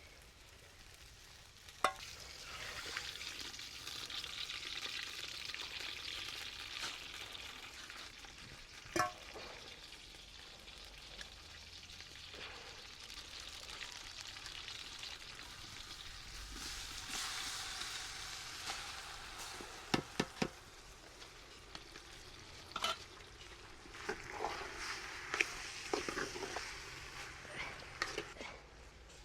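Food sizzling as it fries in a cooking pot, stirred, with sharp knocks of a spoon against the pot, several in quick succession in the last third.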